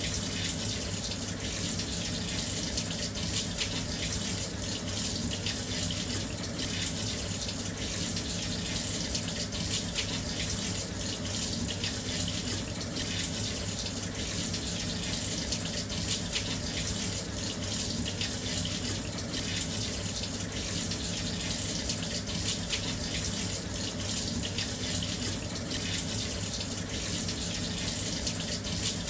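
Washing machine filling with water: a steady, unbroken rush of water pouring into the drum.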